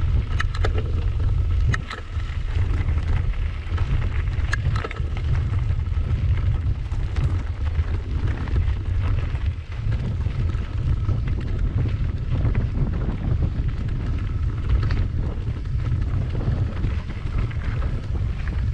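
Wind buffeting the microphone on a moving bicycle: a steady low rumble with a thin hiss above it and a few faint clicks.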